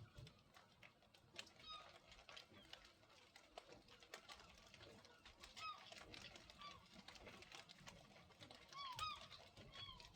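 Faint, scattered short bird chirps, each a quick bent note, over sparse light ticks; the whole is quiet.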